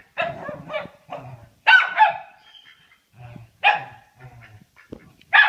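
A dog barking, a series of short separate barks spaced out with pauses between them.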